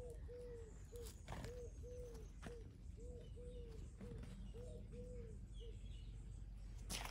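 A bird gives a long series of short, low, cooing hoots, evenly repeated about two or three a second, which stop a little over halfway through. A few faint higher chirps sound over it, and a sharp click comes near the end.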